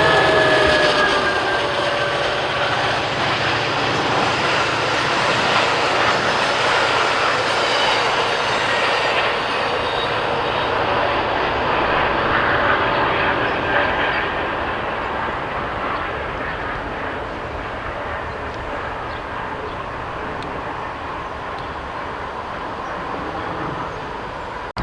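Metra commuter train rolling past on the rails, a loud rush of wheels and cars that fades steadily as it moves away.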